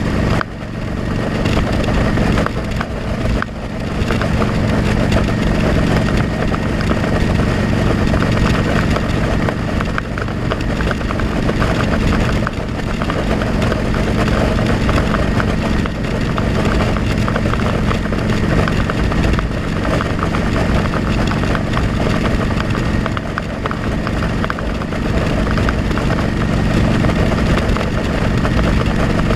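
Motorcycle engine running at a steady speed under heavy wind rumble, as picked up by a helmet-mounted camera. The level dips briefly twice in the first few seconds.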